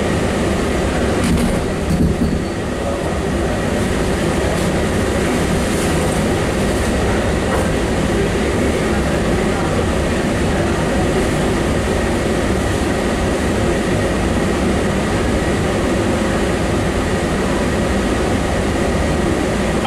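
Steady rumble and hiss inside a Terminal Link airport people-mover train car, with a faint steady high whine. There is a brief knock about two seconds in.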